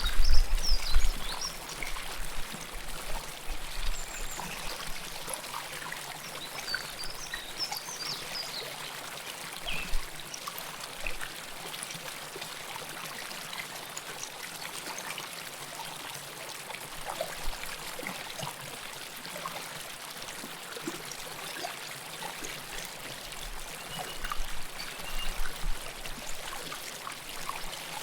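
River water flowing close up, a steady rush with small gurgles and trickles, swelling briefly near the start and again near the end.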